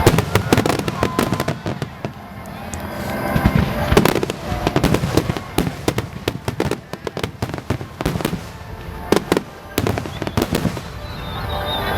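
Aerial fireworks bursting in rapid succession: a fast string of sharp bangs and crackles, with heavier booms about four seconds in and again near nine seconds.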